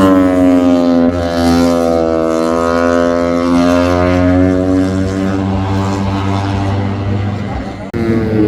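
MotoGP racing motorcycle engines running at high revs, the engine note slowly falling then rising in pitch as the bikes pass and change speed, with an abrupt cut about eight seconds in.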